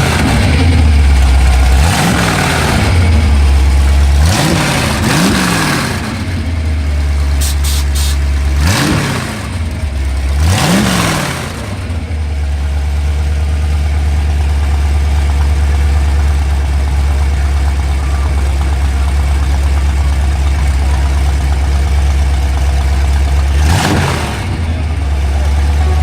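A car engine idling with a deep steady rumble, blipped through several quick revs that rise and fall in the first dozen seconds, then idling steadily, with one more rev near the end.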